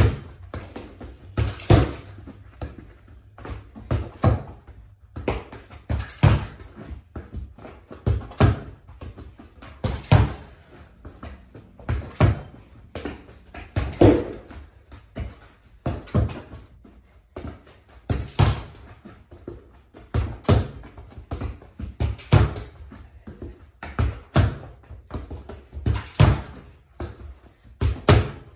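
A soccer ball being passed with the feet against a wall and fridge and trapped on the rebound, in a small room. It makes repeated thuds and knocks in a steady rhythm, a loud one about every two seconds with lighter touches between.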